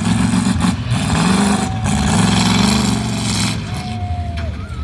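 Truck engine running loud under heavy throttle, with a strong rushing exhaust noise that swells and eases a few times, then drops off after about three and a half seconds.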